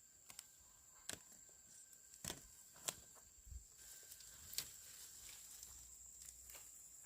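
Faint steady high-pitched insect chirring, with about six sharp clicks and taps scattered through the first few seconds.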